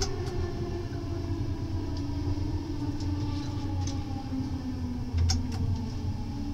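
Steady low rumble of a moving passenger train heard from inside the coach, with a faint steady hum over it. A few light clicks and taps come through, with a sharper knock about five seconds in.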